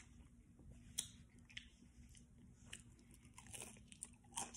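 Quiet close-up chewing of a crunchy Doritos Locos taco shell, with scattered small crunches, then a louder crunching bite into the taco shell near the end.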